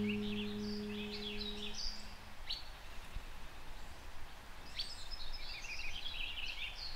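Small songbirds singing in short phrases of quick chirping notes, near the start and again near the end. The last guitar chord of the music rings and fades out in the first two seconds.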